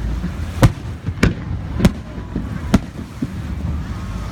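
Fireworks bursting: a run of sharp bangs, four loud ones in about two seconds with fainter pops between, over a steady low rumble.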